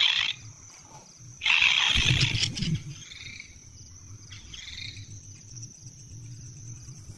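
Kingfisher nestlings giving harsh, hissing begging calls in two loud bursts, the second about a second and a half in with a thump beneath it, then a few faint falling calls.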